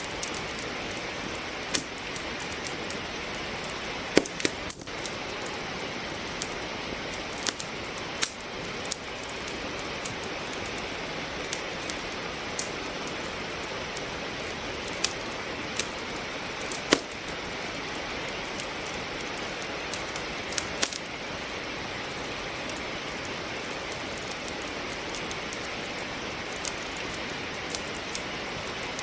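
Steady rain hiss mixed with the irregular sharp pops and crackles of wood logs burning in a fireplace, a few louder pops standing out.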